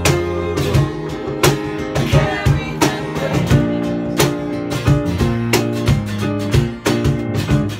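Band music in an instrumental passage: strummed acoustic guitar over sustained low notes, with regular sharp beats.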